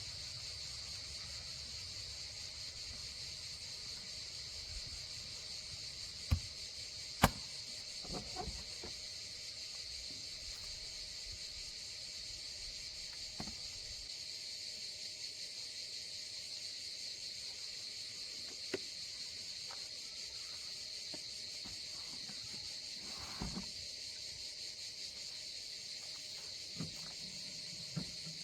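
Steady high-pitched chirring of insects in summer woodland. A few sharp knocks break through, the loudest two about six and seven seconds in.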